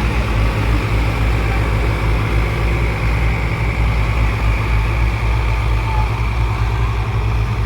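Tractor's diesel engine running steadily, a deep, constant low hum.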